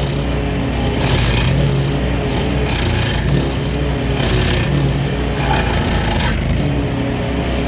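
Lawn mower engine running steadily under load, with short noisy rushes of cutting about every second.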